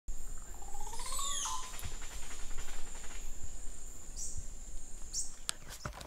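Birds calling: a rising whistled note about a second in, then quick high chirps around four and five seconds in, over a steady thin high-pitched tone and a low rumble. A few sharp clicks come near the end.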